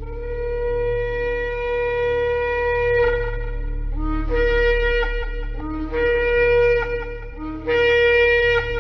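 Shofar (ram's horn) blowing: one long blast of about three seconds, then three shorter blasts, each opening on a brief lower note that jumps up to the main pitch.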